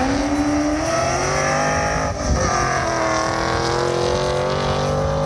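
2003 Ford Mustang SVT Cobra's supercharged 4.6-litre V8 accelerating hard at full throttle down a quarter-mile drag strip. Its pitch climbs, drops with an upshift about two seconds in, then climbs again through the next gear.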